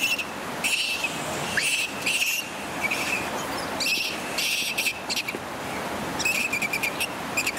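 Small birds chirping in repeated short bursts of quick high notes, over a steady rush of flowing water.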